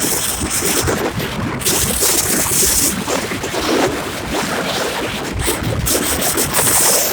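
Strong wind buffeting the microphone over surf, with a loud hissing wash of water twice: once about two seconds in and again near the end.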